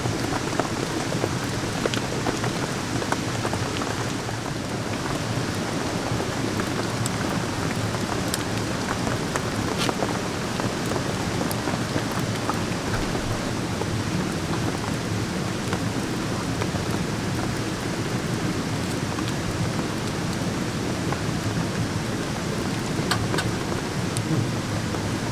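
Steady rain falling and drumming on a surface, with scattered sharp drop ticks.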